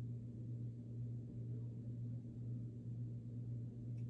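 Steady low hum, one even tone with no rise or fall, with a faint click near the end.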